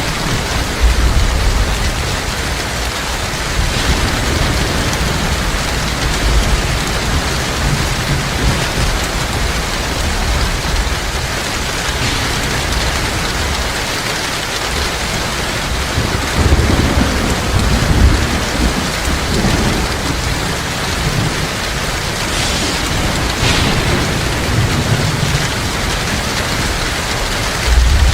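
Heavy rain falling steadily, a dense even hiss, with low rolls of thunder rumbling underneath several times, the strongest about two-thirds of the way through.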